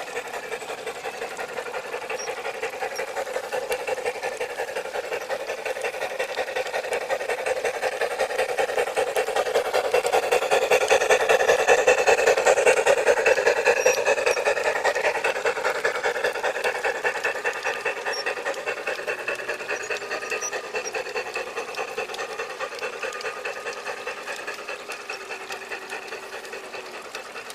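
G scale garden model train running along the track, its motor and wheels clattering in a fast, even rhythm. It grows louder toward the middle and fades again as it passes by.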